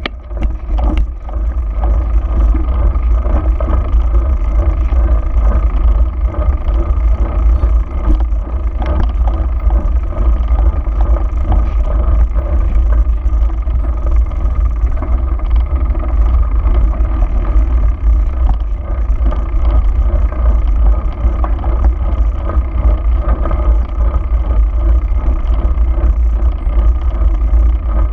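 A motor vehicle running steadily, with a heavy low rumble.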